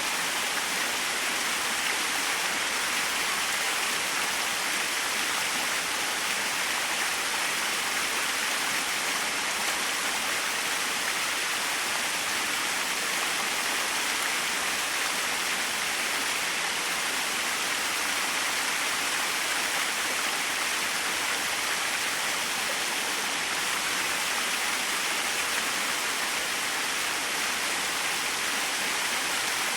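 Small waterfall splashing steadily, an even rushing hiss of falling water with no change.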